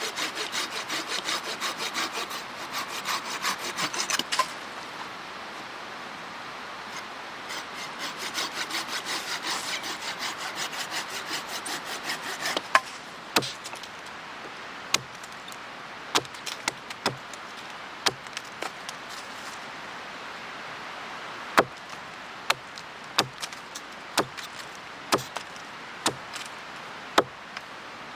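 A hand saw cutting through wood in quick back-and-forth strokes, in two spells with a pause between them. After that come a string of sharp, irregularly spaced wooden cracks or knocks.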